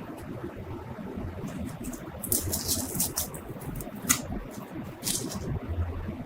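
Light clicking and scraping from hand work, in short clusters over a steady low background noise, with one sharper click about four seconds in.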